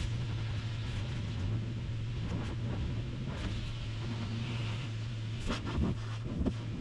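Pressure washer washing down a truck camper: a steady low hum under an even hiss of spray, with a few brief knocks near the end.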